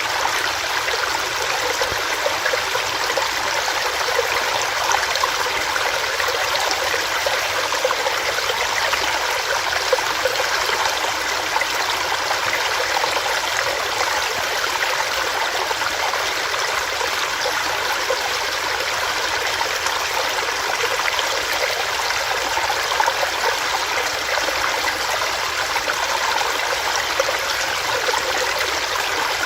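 Small stream running over rocks: a steady rushing, splashing flow with no breaks.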